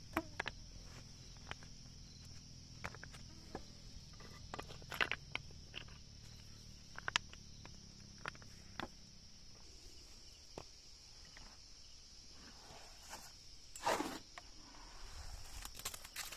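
Steady high chirring of insects, with scattered light clicks and knocks throughout and a couple of louder rustling scrapes near the end.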